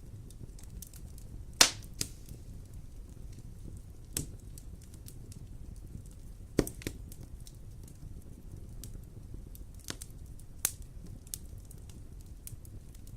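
Wood fire in a fireplace crackling: a steady low rumble with scattered small ticks and several sharp pops, the loudest about a second and a half in.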